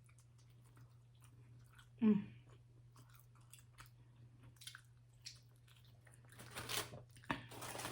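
Close-up chewing and small mouth clicks while eating, with a short vocal hum about two seconds in.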